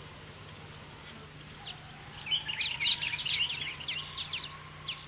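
Weaver birds twittering in a swamp colony: a burst of rapid high chirps about two seconds in, lasting a couple of seconds, over a steady high-pitched background hum.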